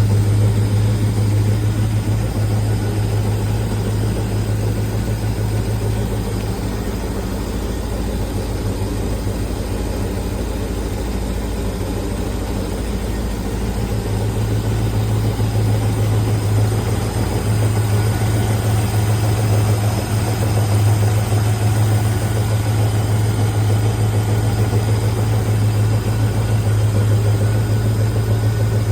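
Plymouth Barracuda engine idling steadily, easing off slightly partway through and picking back up; its exhaust work is not yet done.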